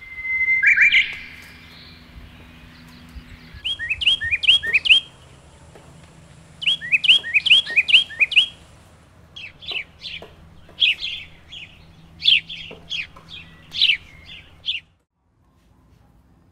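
Birds chirping, with runs of quick high rising chirps, then a string of short, sharp falling notes. The calls cut off suddenly near the end.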